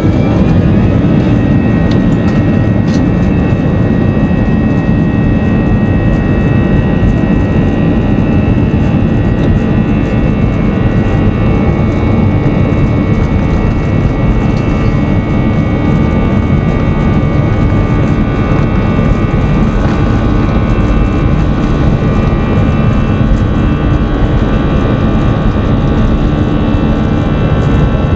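Airbus A320 jet engines heard from inside the cabin, their whine rising steeply in the first second as they spool up, then holding steady at takeoff thrust: a loud, even roar with several steady whining tones through the takeoff run.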